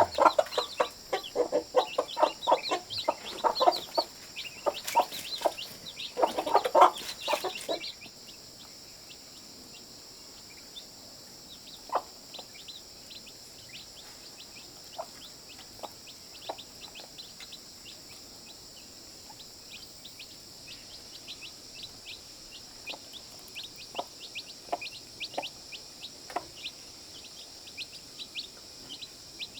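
A flock of chickens clucking, busy for the first eight seconds or so, then thinning to scattered short calls and chirps over a steady high hum.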